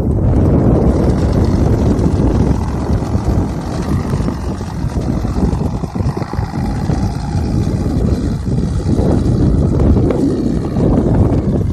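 Tractor engine running steadily with a loud, rough rumble.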